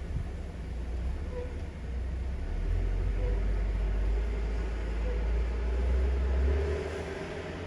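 Low rumble of a truck driving through heavy snow, heard from inside the cab. It swells a few seconds in and eases off near the end, with a faint short chirp repeating about every two seconds.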